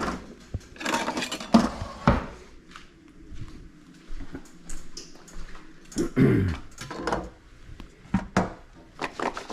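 Metal kitchen utensils and cookware clinking and clattering, a string of separate knocks and clanks. The loudest come about a second and a half in, two seconds in, and six seconds in.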